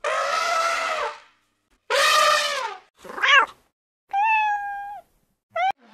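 Two long, harsh elephant trumpet calls, then a kitten meowing three times: a short rising-and-falling meow, a longer steady meow and a brief one near the end.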